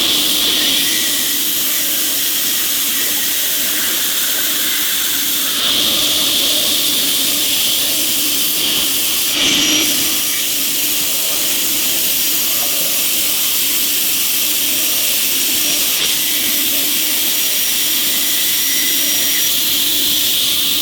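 5-axis CNC machine running, a steady loud hiss with a faint high whine that comes and goes, swelling briefly louder twice.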